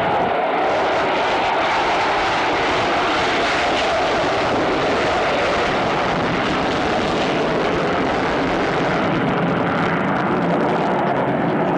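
Loud, steady jet noise from a B-1B Lancer bomber's engines as it flies its display, with no break. The higher part of the noise thins out about nine seconds in.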